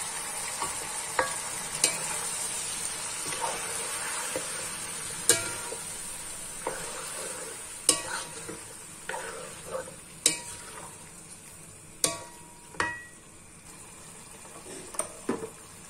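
Beef, tendon and onion sizzling in a nonstick wok while being stirred with a wooden spatula, which knocks and scrapes against the pan at irregular moments. The sizzle fades steadily over the stretch.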